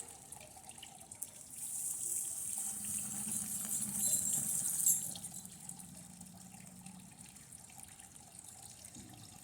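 Circuit board sizzling as high current from a lead-acid battery burns through it: a hiss that builds about two seconds in and cuts off abruptly about five seconds in, over a faint low hum.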